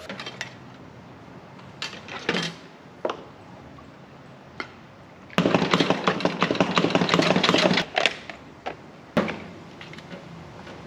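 A few knocks, then the mower being shaken to slosh a little rinse oil through the engine, giving a rapid loud rattle for about two and a half seconds, with a couple of knocks after.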